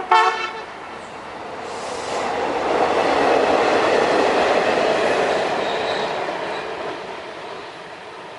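A train's horn gives a short, loud blast, then a train passes: the rolling noise swells over a few seconds and fades away.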